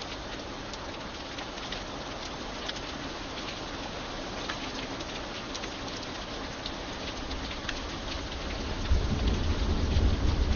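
Steady rain falling, with scattered distinct drops ticking close by. About eight seconds in, a low rumble of thunder builds and becomes the loudest sound.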